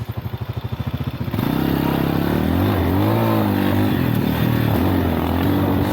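Lifan Xpect dual-sport motorcycle's single-cylinder engine puttering at low revs, then pulling away about a second in, its revs rising and falling as it accelerates, with wind rushing over the microphone.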